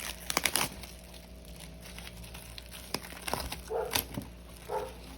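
Plastic wrapping crinkling and tearing as it is pulled off, with a dense run of crackles in the first second and more around three to four seconds in.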